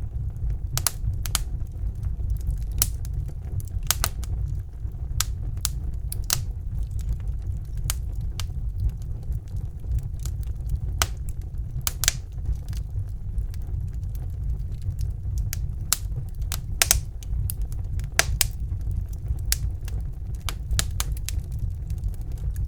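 Wood fire burning in a fireplace: a steady low rumble of the flames with sharp, irregular crackles and pops of the burning logs throughout.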